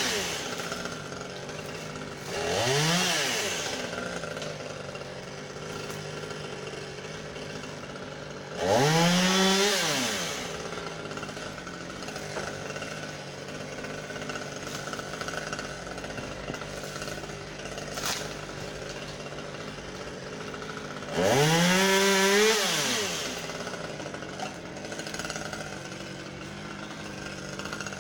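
Husqvarna T540XP top-handle two-stroke chainsaw idling, revved up three times for a second or two each, the pitch rising then falling back to idle.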